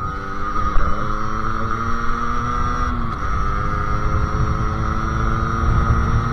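Sherco SM-R 50cc two-stroke engine with a KRM expansion exhaust pulling under way, revs climbing slowly, dropping suddenly about halfway through, then climbing again, with wind rumble underneath.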